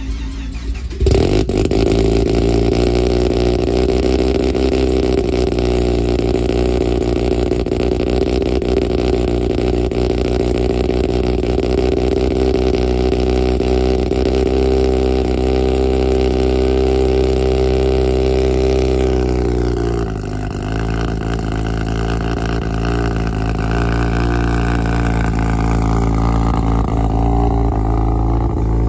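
Mazda RX-7 FD's rotary engine running loud and steady, coming in suddenly about a second in. Its pitch holds level, dips briefly around twenty seconds, then slowly climbs toward the end.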